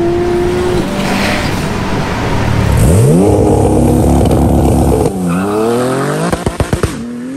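Fully built, roughly 1,300 bhp Porsche 911 Turbo S twin-turbo flat-six accelerating hard. The revs climb steeply about three seconds in and hold high, then drop at a gear change about five seconds in and climb again. A quick string of sharp pops follows about six seconds in.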